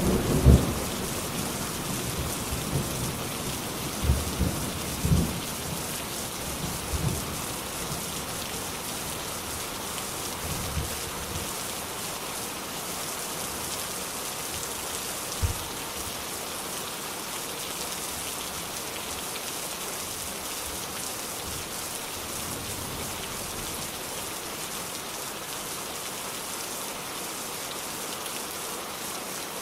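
Steady rain falling, with thunder rumbling at the start and a few fainter low rumbles up to about halfway. After that only the rain goes on.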